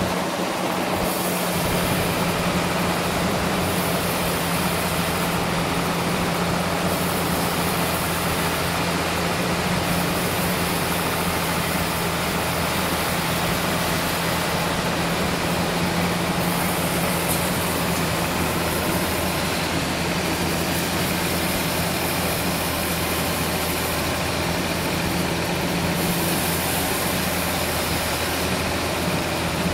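Sawmill engine running steadily under the cutting of a large trembesi log: a constant drone with a steady hum, its low rumble filling in about a second in.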